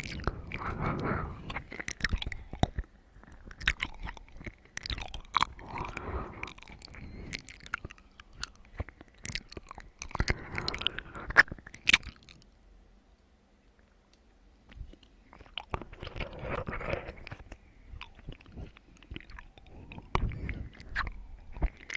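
Close-miked wet chewing and biting with crunchy clicks, in clusters, with a pause of about two seconds just after the middle.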